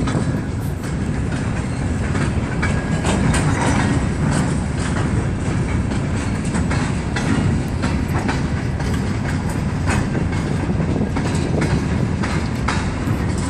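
Freight train of steel gondola cars rolling past: a steady rumble of wheels on rail with irregular clicking and clanking of wheels over the rail joints.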